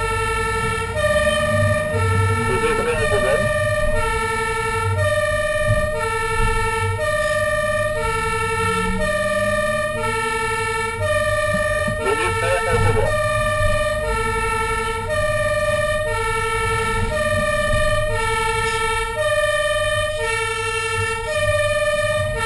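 Fire engine's two-tone hi-lo siren alternating steadily between a lower and a higher note over the truck's low engine rumble. Brief harsh noises break in around three seconds and thirteen seconds in.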